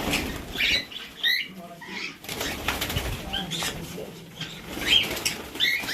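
Caged birds fluttering their wings and giving short chirping calls, in many brief scattered bursts.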